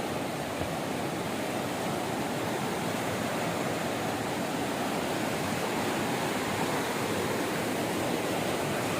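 Steady rush of a waterfall, an even noise that slowly grows a little louder.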